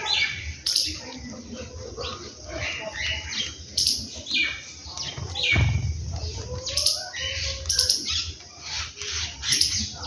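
Birds chirping and calling in short, irregular notes, typical of house sparrows feeding on the ground, with a brief low rustle about halfway through.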